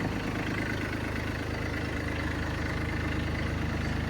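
Bad Boy 3026 compact tractor's 25-horsepower diesel engine idling steadily.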